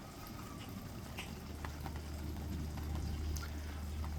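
Steady rain with scattered drips and ticks over a constant low hum.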